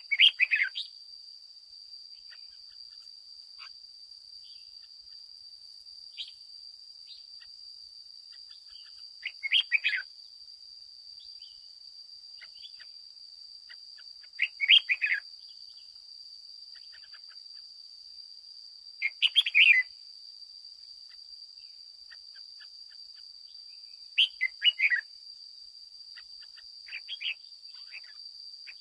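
Red-whiskered bulbul singing short, loud song phrases, six in all, roughly every five seconds. A steady high-pitched whine runs underneath throughout.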